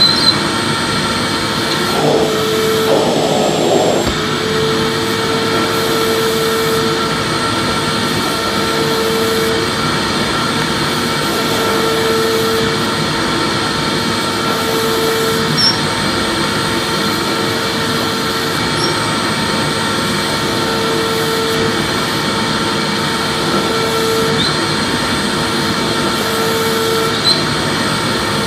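Vacuum cleaner running steadily: a continuous rushing motor noise with a faint whine, and a lower hum that comes and goes every few seconds.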